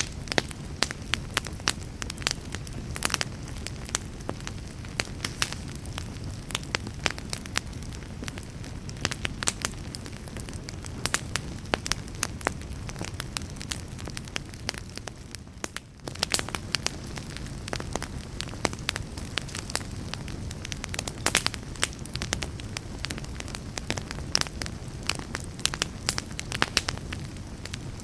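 Campfire burning, crackling with frequent sharp pops and snaps over a steady low rumble of flame. A little past halfway the sound briefly dips, then carries on.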